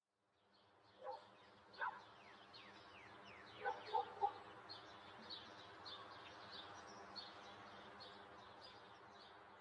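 Faint birdsong: quick, high, falling chirps repeating over and over, with a few louder, lower calls about a second, two seconds and four seconds in, over a faint steady hum.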